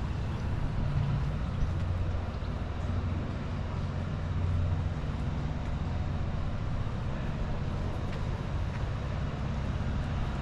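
Steady low engine rumble of a vehicle running nearby, over general city street noise.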